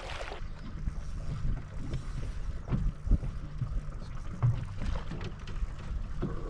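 Wind buffeting the microphone on a fishing boat, over the low steady hum of the boat's motor, with a couple of short knocks about three seconds in.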